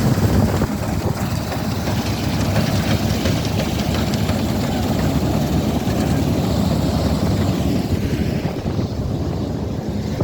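Combine harvester running steadily during wheat harvesting, a loud continuous machine drone. Its higher-pitched part fades somewhat near the end.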